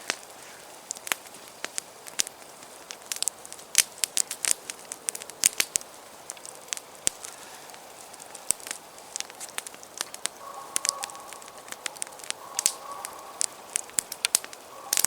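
Campfire crackling, with irregular sharp pops and snaps of burning wood. A faint steady tone joins about two-thirds of the way in.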